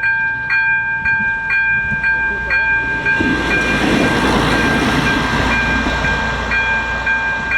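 Railroad crossing's ZV02 electronic warning bell ringing steadily, striking about twice a second. From about three seconds in to about six and a half, a ČD class 810 railbus runs over the crossing, its running noise swelling and fading under the bell.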